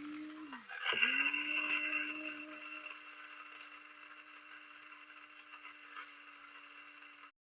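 BLACK+DECKER One Touch electric blade coffee grinder running on whole coffee beans. The motor briefly dips and spins back up about a second in, louder just after the restart, then settles to a steady whir before cutting off suddenly near the end.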